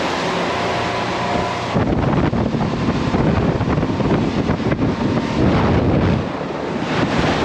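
Speedboat engine running under way, with wind buffeting the microphone loudly from about two seconds in until near the end.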